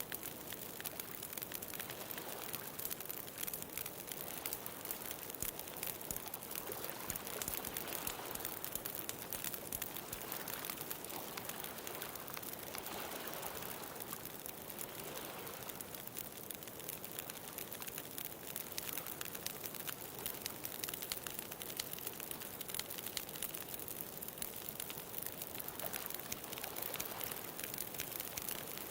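Bonfire crackling with a steady stream of small pops, over the wash of ocean waves that swell and ease a few times.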